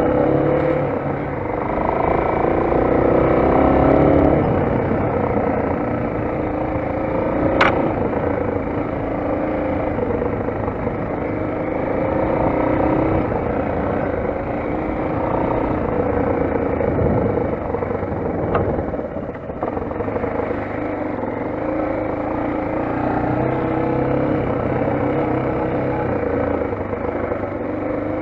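Motoland XR 250 enduro motorcycle's single-cylinder four-stroke engine running steadily as it is ridden. There is a sharp knock about eight seconds in and a fainter one near nineteen seconds.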